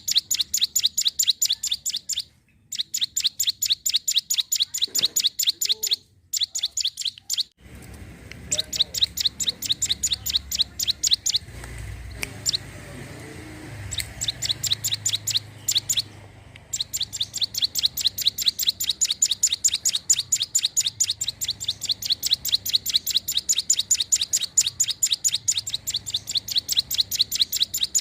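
A ciblek gunung, a prinia, singing a long, fast, even run of high, sharp chirps. The song breaks off a few times, including a longer pause in the middle, then runs on unbroken through the second half.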